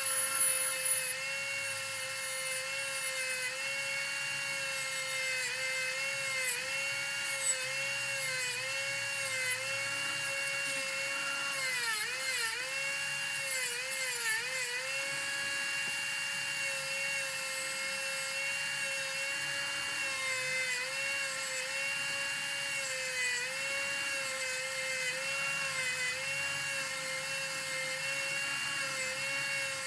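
Small high-speed rotary tool motor whirring steadily, its pitch sagging briefly again and again as it is pressed against the work, most deeply about halfway through.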